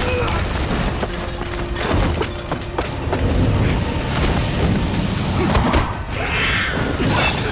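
Action-scene soundtrack: dramatic music with heavy booms and crashing impacts.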